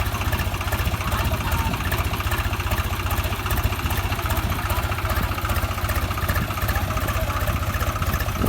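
Tractor diesel engine running steadily at a constant speed with a fast, even firing beat.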